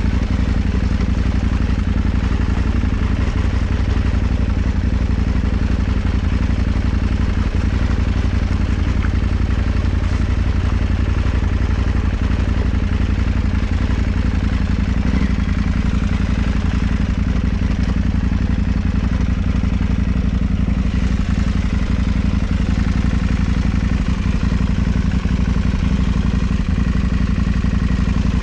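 KTM 790 Adventure's parallel-twin engine running at low, steady revs as the motorcycle is ridden slowly across a wet, sandy riverbed.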